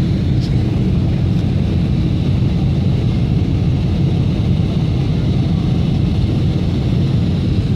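Boeing 747-400 jet airliner noise: a steady, loud, low rumble with a faint high whine above it.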